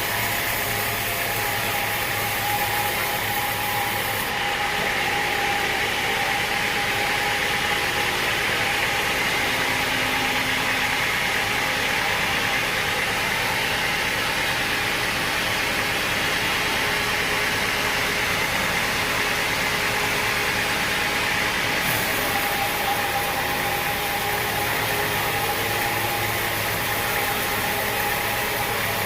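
Sawmill machinery running steadily: a constant mechanical hum with a held tone and a wide hiss. The highest hiss thins out from about four seconds in and comes back around twenty-two seconds.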